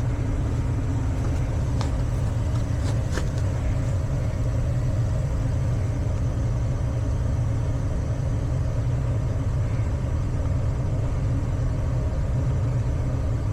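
Gas furnace running in its heat cycle, burners lit and blower moving air, giving a steady low rumble.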